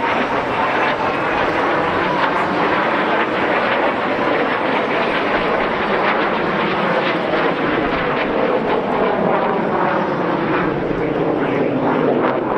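Jet display aircraft flying past: loud, steady turbojet engine noise whose pitch bends slowly as it passes.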